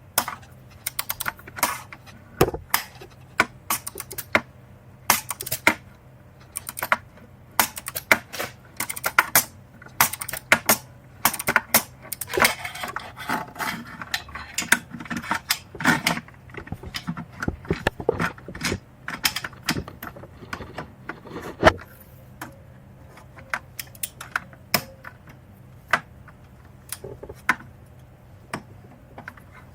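Socket wrench ratcheting in short runs of clicks as exhaust manifold bolts are tightened alternately, with metal tool clinks in between.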